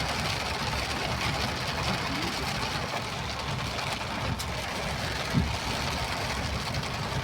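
A vehicle driving in the rain: a steady low engine rumble under an even hiss of rain and road noise, with a short low knock about five seconds in.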